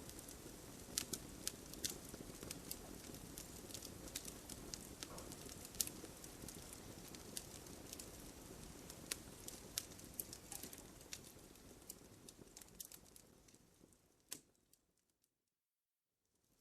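Campfire crackling: irregular sharp pops and snaps of burning wood over a soft hiss. About fourteen seconds in, it fades out to silence.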